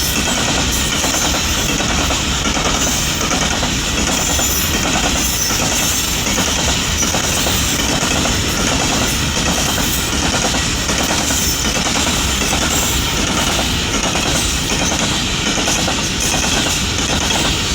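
Steady, loud vehicle running noise with a regular clatter about twice a second.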